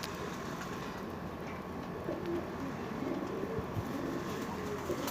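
Domestic pigeons cooing, a few short low coos coming and going through the second half.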